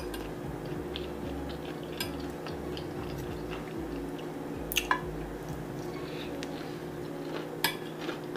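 A person chewing food close to the microphone, with a few sharp clicks of cutlery against a plate, over a steady low hum.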